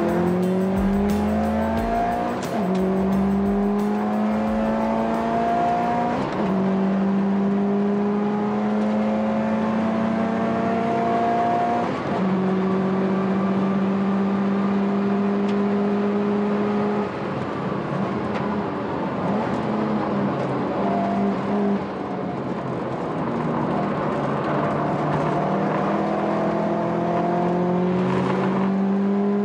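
Subaru WRX STI (VAB) turbocharged 2.0-litre flat-four with an upgraded turbocharger, heard from inside the cabin at full throttle. Its note climbs steadily through each gear, with brief breaks at the shifts. About two-thirds of the way through comes a choppier stretch of lifts and downshifts, and then it pulls up through the gears again.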